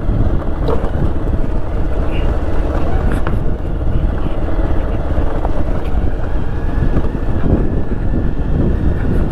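Motorcycle running along at road speed, with steady wind noise on the microphone.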